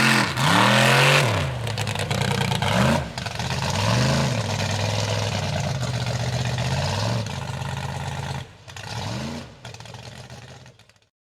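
Big mega truck engine revving in a series of blips, its pitch rising and falling again and again; it quietens near the end and the sound cuts off suddenly.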